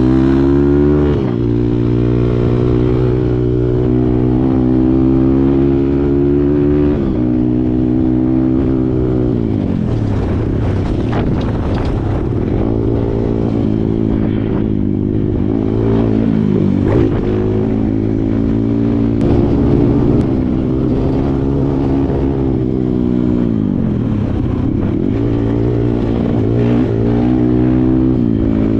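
Kawasaki KLX140 dirt bike's single-cylinder four-stroke engine revving, its pitch climbing and dropping again and again as the throttle opens and closes, with a few short knocks from the bike along the way.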